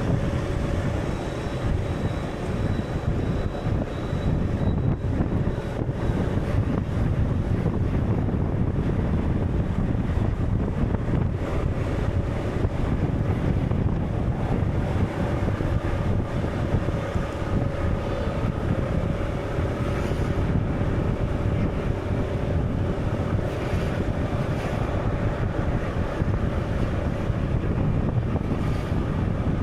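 Steady, low, rumbling wind-and-sea ambience, with a few faint held tones above it.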